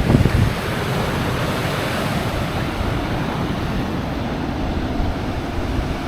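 Sea surf washing steadily onto a beach, with wind buffeting the microphone in the first half-second.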